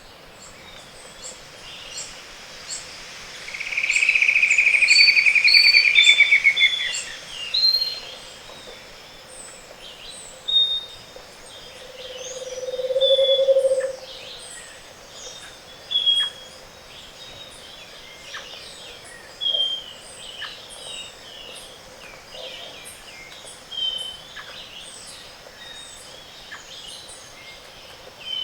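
Dawn chorus of tropical forest birds. Early on a loud, fast trill slides slightly downward. Around the middle a low trill grows louder, and other birds repeat short whistled notes every couple of seconds throughout.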